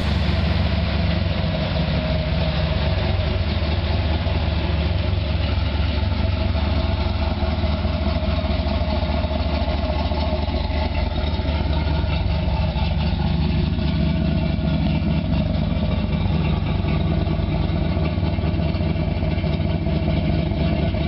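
1969 Camaro SS's 427 cubic-inch big-block Chevrolet V8 with a roller cam, idling steadily.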